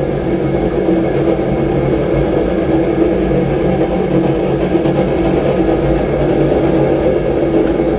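A forge running steadily with an even, unbroken hum, heating a hardened lawnmower-blade steel knife blade so it can be straightened and quenched again.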